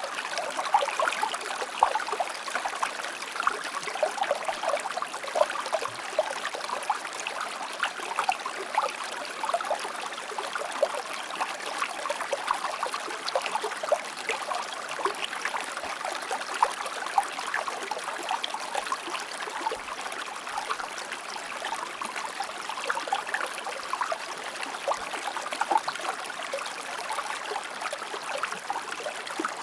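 A shallow stream or river flowing over rocks: a steady babble with many small splashes and trickles.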